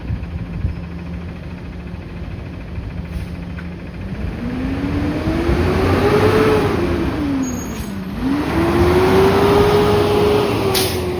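Peterbilt 520 garbage truck's engine idling, then revved twice: the pitch climbs about four seconds in, drops back briefly, then rises again and holds high before easing off near the end.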